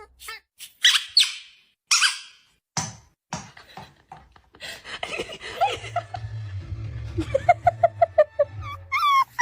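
A dog making squeaky whines and high yelps, with a quick run of about six short yips near the end.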